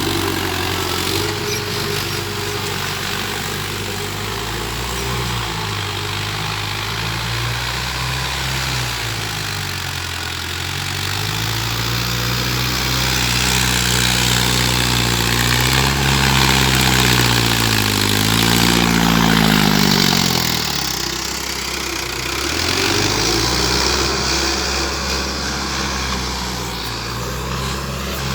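Mahindra tractor's diesel engine running, its speed rising and falling several times, climbing to its highest a little past the middle and then dropping off sharply before picking up again.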